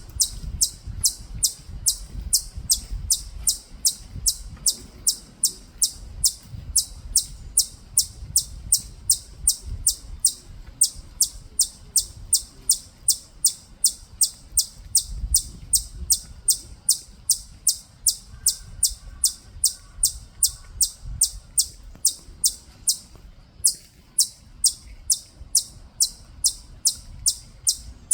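Siberian chipmunk (the Korean native chipmunk) giving its repeated high-pitched chirping call, a short sharp 'chip' about three times a second, kept up steadily with only a couple of brief pauses.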